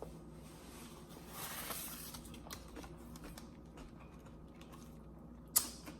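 Faint handling noises, soft rustles and small ticks, with one short sharp knock about five and a half seconds in.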